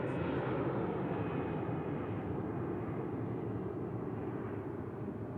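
Jet airliner engine noise, a steady rush that slowly fades as the higher part of the sound dies away.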